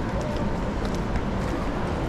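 Steady city background noise, a constant hubbub of traffic and people, with a few faint clicks.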